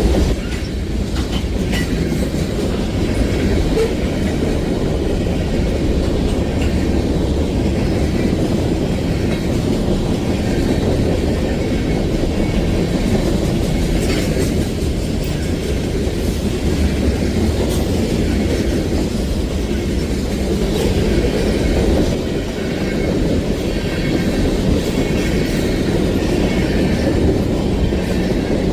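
Freight train cars rolling past close by, a steady heavy rumble with the wheels clicking over the rail joints.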